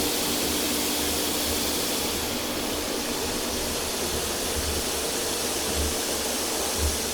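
Christ Auto-Jet C115 automatic car wash spraying water steadily over the car, heard from inside the cabin as an even rushing hiss over a low machinery hum.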